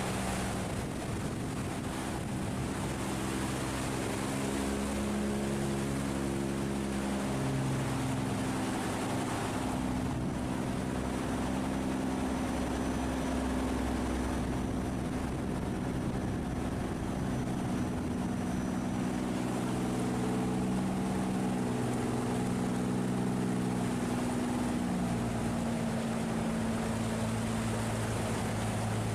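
Boat engines running with a steady low hum whose pitch shifts slightly now and then, over the rush of fast-flowing water.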